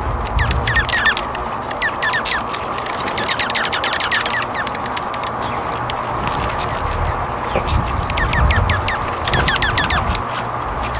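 Small songbirds chirping and twittering: many quick, high, falling chirps in clusters, busiest around the start and again near the end, over a steady hiss and low rumble.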